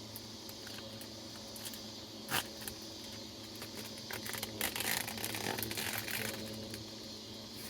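Food packaging being handled: scattered small clicks, a sharper knock about two seconds in, and a burst of crinkling rustle around the middle.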